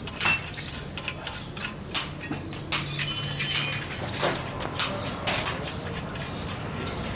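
Metal tools and parts clinking and knocking against each other in irregular sharp strikes, with a short scraping rasp about three seconds in: hands-on work on a car's shock absorber parts.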